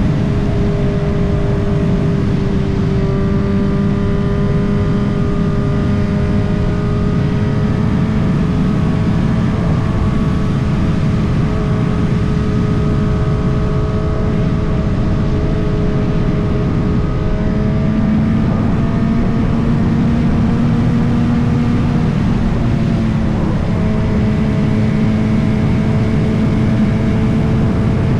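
Motorcycle engine running steadily under way, its note drifting and shifting slightly in pitch a few times. A heavy low rumble of wind and road noise sits beneath it.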